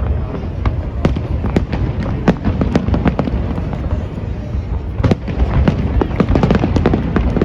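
Fireworks display with shells bursting in quick succession: a dense run of sharp bangs and crackles, several a second, over a continuous low rumble. It grows thicker about two-thirds of the way in.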